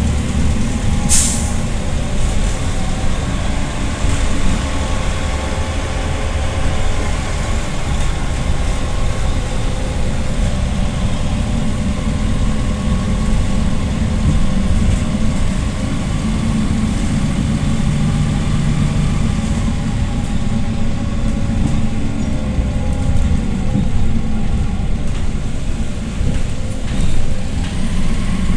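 PAZ-320405-04 Vector Next city bus engine running as the bus drives, its pitch drifting with engine speed. A short, sharp hiss of compressed air about a second in.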